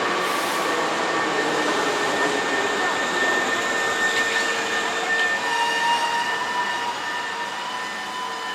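Hankyu Kyoto Line electric train with resistance control running past at the platform: rolling wheel and running noise with several steady whining tones that shift about halfway through, fading slowly near the end.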